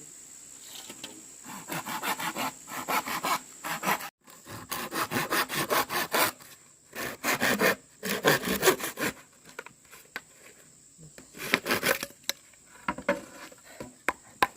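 Hand saw cutting through wood in quick back-and-forth strokes, in several bursts with short pauses between them.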